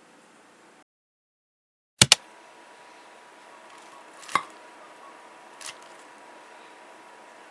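Faint hiss that cuts to dead silence, then two sharp clicks in quick succession, followed by a softer knock and a light tap, over a faint steady tone.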